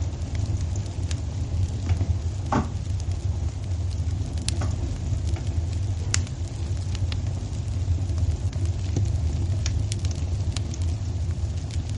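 Fire burning in a fireplace: a steady low rumble with scattered crackles and sharp pops, one fuller pop a few seconds in.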